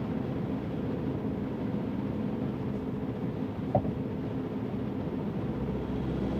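MK7 Volkswagen GTI's turbocharged 2.0-litre four-cylinder running through an AWE Tuning Touring Edition exhaust, a steady low rumble. A short faint chirp comes about two-thirds of the way through.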